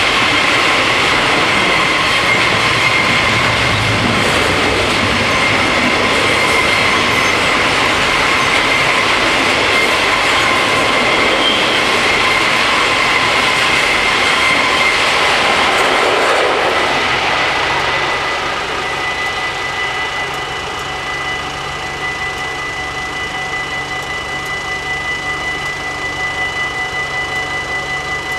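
A train runs past over the level crossing, its wheels rumbling and squealing on the rails, and dies away after about 17 seconds. Through it and after it, the crossing's electric warning bells keep ringing with a steady high, rapid ring.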